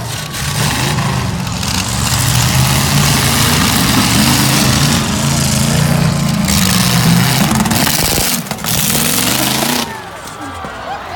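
Demolition derby truck engines running and revving hard under loud noise; the racket drops off sharply near the end.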